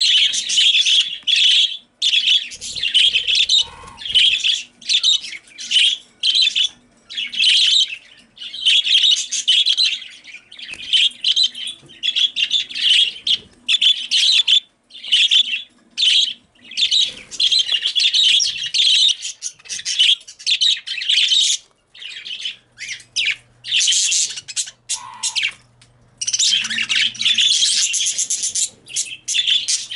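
Several female budgerigars chirping and calling loudly in rapid, overlapping bursts with short pauses between.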